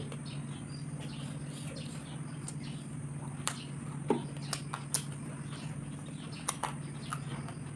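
Mouth sounds of eating: chewing grilled chicken and rice, with several sharp smacking clicks bunched in the middle, over a steady low hum.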